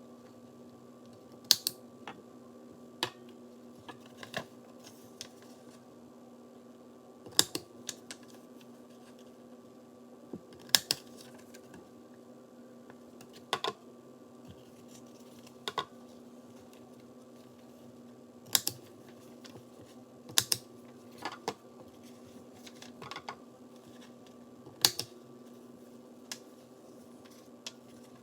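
Corner rounder punch clipping the corners of a notebook's paper pages: sharp clicks every one to three seconds, some in quick pairs, over a faint steady hum.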